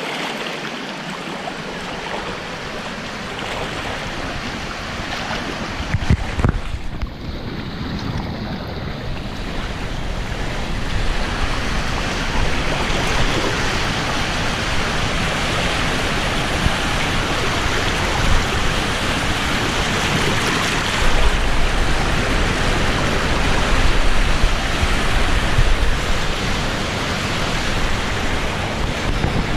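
Steady rush of river water over rapids, growing gradually louder, with low rumbling buffets on the microphone in the second half.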